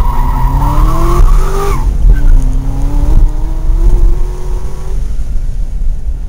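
Car engine accelerating hard: its pitch climbs, drops at a gear change about two seconds in, then climbs again until it eases off near the end. Tires squeal through the first two seconds as the car is pushed around the course.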